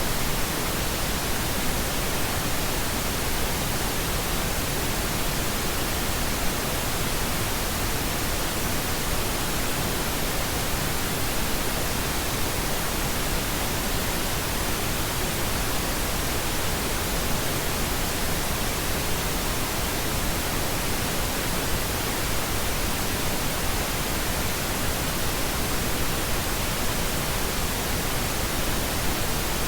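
Steady pink noise: an even, unchanging hiss spread across all pitches, fuller in the lows than white noise.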